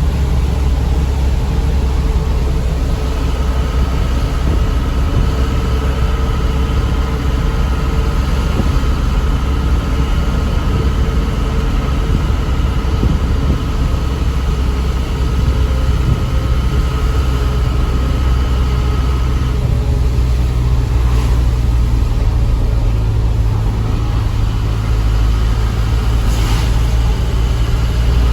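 Isuzu Elf Giga light truck's diesel engine running steadily on the road, and its note changes about twenty seconds in.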